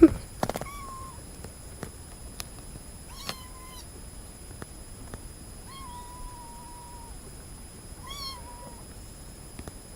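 A kitten mewing four times in high, thin calls, the third held for about a second and a half.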